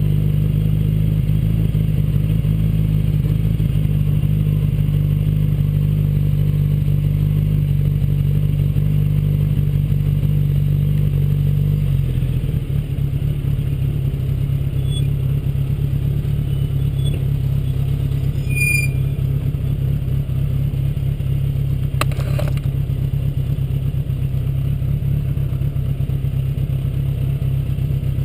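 1979 Honda GL1000 Gold Wing's water-cooled flat-four engine running steadily; its note changes about twelve seconds in. A single sharp click a little past twenty seconds.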